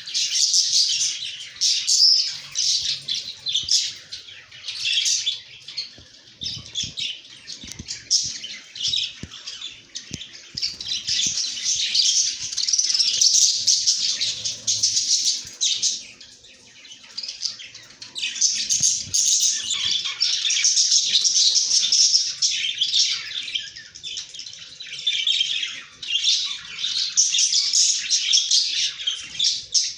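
A flock of budgerigars chattering and chirping, many high calls overlapping without a break, easing briefly twice.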